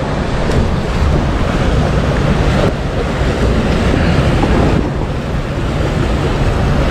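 Wind buffeting the microphone over the wash of sea waves, a loud steady rushing that swells and eases slightly.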